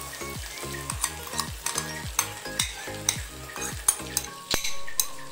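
Tomato-and-pea masala sizzling in a hot frying pan, with many sharp crackles, as a thick yogurt and gram-flour paste is poured in.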